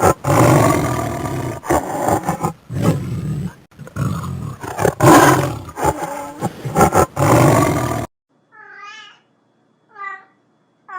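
Big cat roaring in repeated rough bursts, cutting off suddenly about eight seconds in; then a cat meows twice, short and clear.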